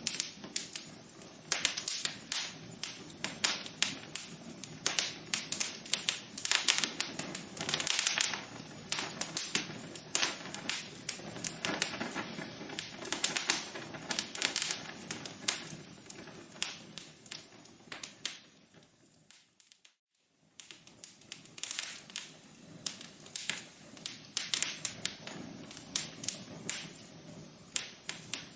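Fireplace fire crackling: dense, irregular pops and snaps over a steady softer background. About two-thirds of the way through, the sound fades almost to nothing for under a second, then the crackling starts again.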